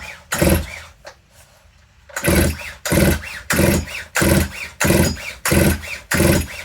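Stihl MS181 two-stroke chainsaw being cranked on its recoil pull-starter with the spark plug out for a spark test: a quick whirring rasp on each pull. Two pulls come first, then after a pause about seven pulls in a steady rhythm, roughly two-thirds of a second apart. The engine does not fire.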